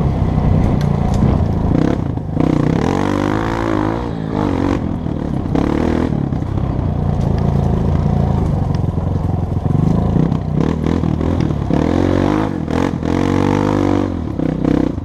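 Dirt bike engine running under way, its pitch rising and falling as the throttle is worked, with surges of revving a few seconds in and again near the end.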